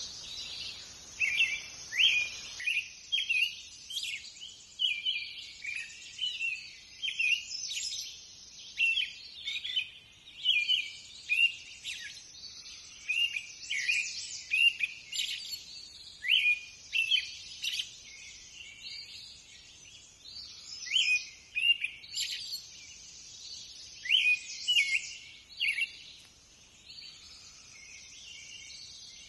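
Songbirds singing: many short, high chirps and trills, repeated every second or so, with several calls overlapping at times.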